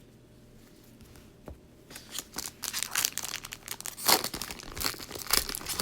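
Plastic wrapper of a basketball trading card pack being torn open and crinkled by hand, starting about two seconds in and going on as rapid crackling.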